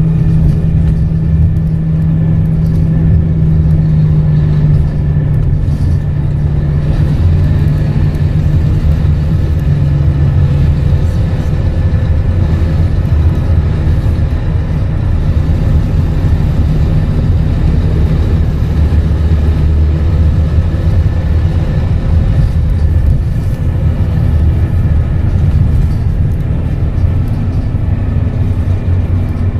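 Scania K230UB bus's five-cylinder diesel engine running steadily under way. About eleven seconds in, its note changes: the higher steady tone fades and a lower drone takes over.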